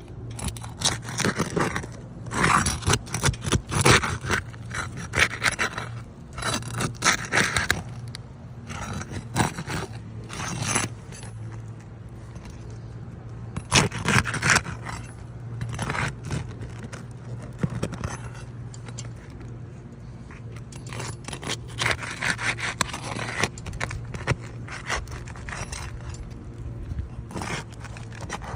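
A hand tool scraping and prying at roof shingles to get at their nails, in irregular clusters of scrapes and sharp clicks with pauses between them. A steady low hum runs underneath.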